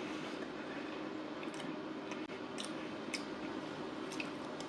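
A person chewing pizza close to the microphone: soft squishy mouth sounds with a handful of short wet clicks.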